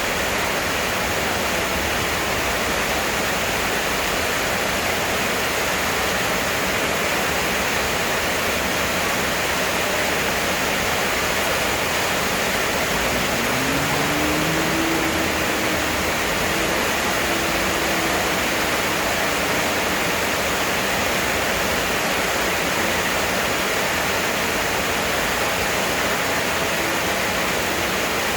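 Heavy rain pouring down steadily. A faint hum rises and holds for a few seconds about midway.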